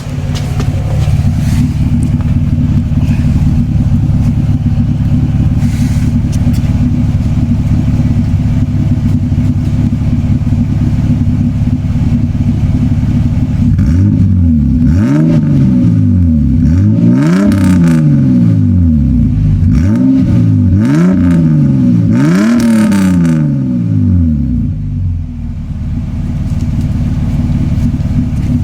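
Toyota Cressida MX83's engine heard at the tailpipe through its newly built custom welded exhaust. It idles steadily, is revved up and let fall back about five times in a row roughly halfway through, then settles back to idle.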